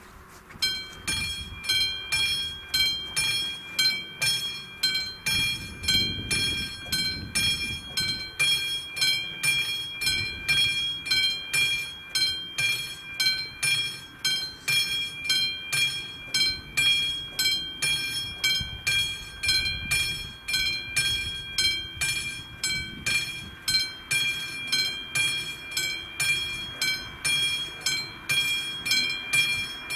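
Level-crossing warning bell on Czech AŽD 71 crossing signals starting to ring about half a second in, then striking steadily about twice a second: the crossing has activated for an approaching train.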